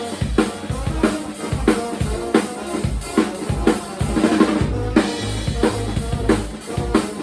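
Live band playing an instrumental passage: a drum kit keeps a steady beat with kick and snare, under a sustained chord, with low bass notes held through the second half.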